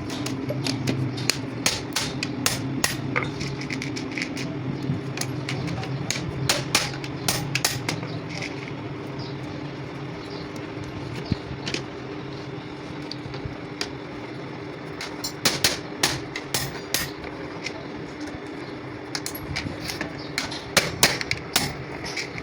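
Sharp metallic taps and clicks, coming in irregular clusters, from hand work on metal clutch parts, over a steady machine hum.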